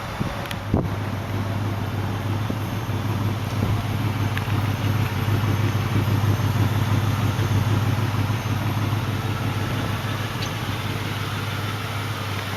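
1993 Lincoln Town Car's 4.6-litre V8 idling steadily through its dual exhaust, sounding like it runs good. A single knock about a second in.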